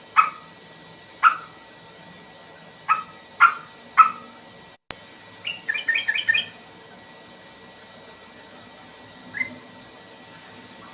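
Sooty-headed bulbul (trucukan) calling: five short, sharp notes spread over the first four seconds, then a quick chattering run of about six notes around six seconds in, and one lone note near the end. Just before five seconds the sound cuts out briefly with a click.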